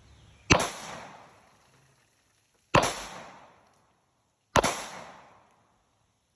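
Three 9mm gunshots, Federal 115-grain +P+ hollow-point rounds, the second about two seconds after the first and the third under two seconds later; each cracks sharply and trails off over about a second.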